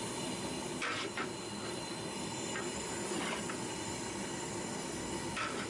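Mutton and onion masala frying with a steady hiss in a large aluminium pot over a low flame, while a long metal ladle stirs and scrapes against the pot a few times.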